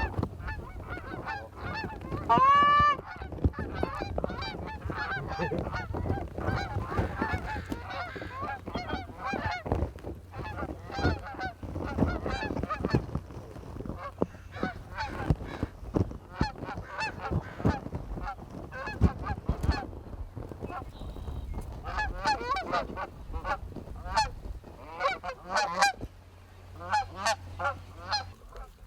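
A flock of Canada geese (honkers) honking and clucking, many short calls overlapping without pause, with one loud drawn-out honk about two seconds in.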